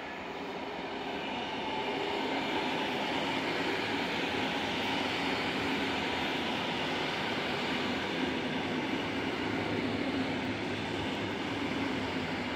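Koleje Mazowieckie electric multiple unit running past along the station track: a steady rumble of wheels on rail with motor hum. It builds over the first couple of seconds, holds, then eases slightly near the end as the last car draws away.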